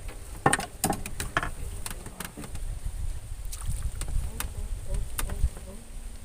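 A run of sharp knocks and clatters, several close together in the first two seconds and a few more spread through the rest, over a steady low rumble.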